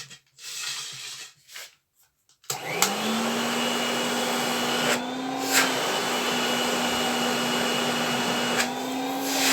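A 1975 Soviet Uralets canister vacuum cleaner switched on about two and a half seconds in, after a few short handling sounds; its motor spins up with a quickly rising whine and then runs steadily with a loud rush of air. The airflow sound changes briefly twice, around the middle and near the end.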